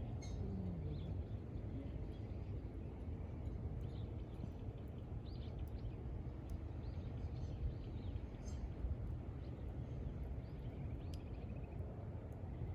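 Wind rumbling on the microphone over a small wood campfire, which gives a few sharp crackles, with faint bird chirps.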